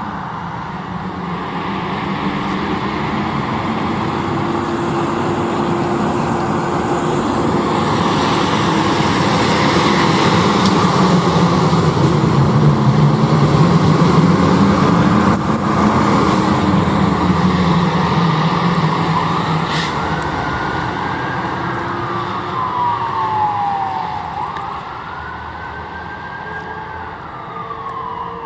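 Responding emergency vehicles, an ambulance and a fire engine, pass with sirens going. Engine and road noise build to a peak about halfway through as they go by, then fade. A siren wail rising and falling in pitch stands out in the second half.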